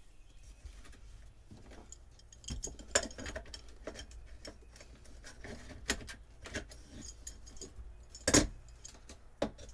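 Irregular metallic clicks, clinks and rattles of hand tools working on old boat wiring and fittings, with a louder clunk about eight seconds in.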